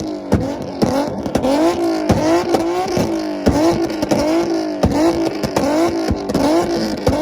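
Infiniti G37's VQ37 V6 engine revved hard over and over in a rev battle, its pitch rising and falling about twice a second with a sharp exhaust crack on each cycle.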